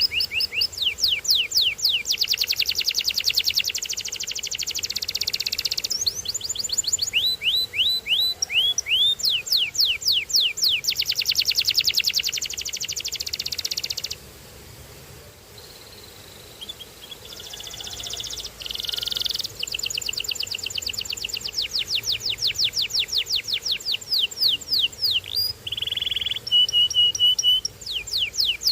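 Domestic canary singing in fast trills of rapidly repeated sweeping notes, broken by a short pause about halfway through. Near the end it holds a single steady whistled note before trilling again.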